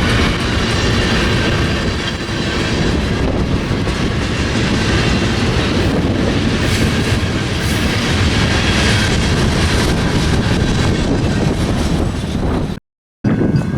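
Freight train cars rolling past, steel wheels clattering over the rail joints in a steady, loud rumble. Near the end the sound cuts out completely for a split second, then resumes.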